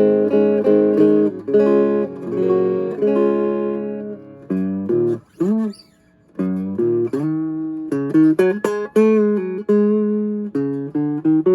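Vintage Silvertone hollowbody electric guitar being played: picked notes and chords, with a string bent up and back down about five seconds in and a brief pause just after. The restorer is trying out the guitar with its newly fitted roller bridge.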